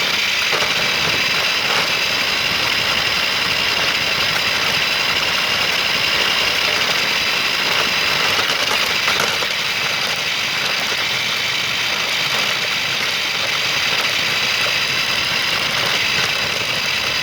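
Remote-control toy car's electric motor and gears whining steadily as it drives, heard from a phone taped onto the car itself.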